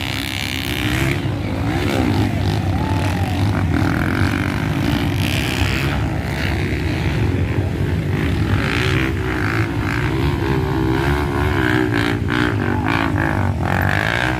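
Off-road motorcycle engines running and revving, pitch rising and falling over and over.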